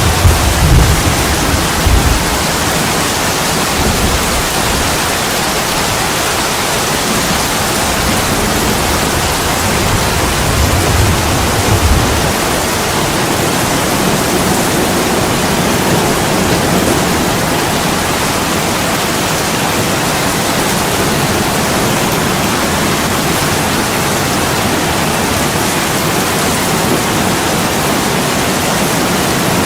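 Heavy rain falling steadily as a dense, even hiss. A low thunder rumble sounds in the first two seconds and again around ten to twelve seconds in.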